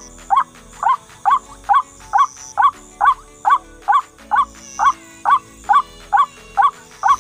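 White-breasted waterhen (ruak-ruak) call repeated in a steady, rhythmic series of short rising notes, about two a second.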